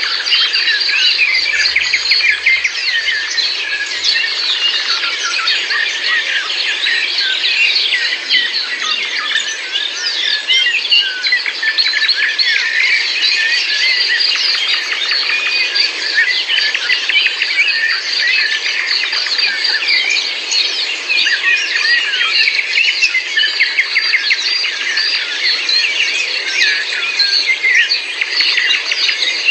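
Dense chorus of many small birds chirping and singing over one another, continuous and unbroken, with a steady high hiss of insects beneath.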